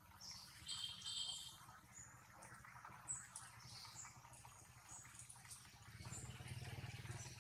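Faint scattered chirps and short high calls of birds in the trees. Under them runs a low steady rumble that swells slightly near the end.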